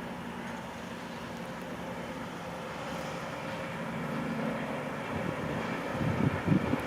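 Train on the line, a steady droning hum that slowly grows louder, with a few low thumps about six seconds in.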